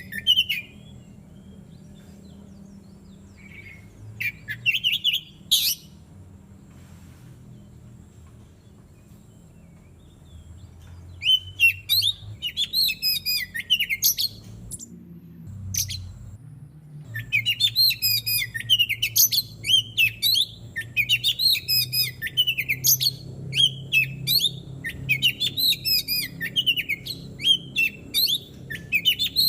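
Oriental magpie-robin (kacer) singing in quick, varied, chirping phrases, with a pause of several seconds early on and near-continuous song through the second half. A faint steady low hum runs underneath, and a single sharp click sounds about midway.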